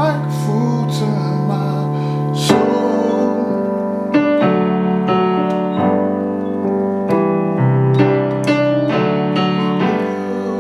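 Keyboard played with a piano sound: a string of chords, each struck and held for about a second, with the bass note moving under them.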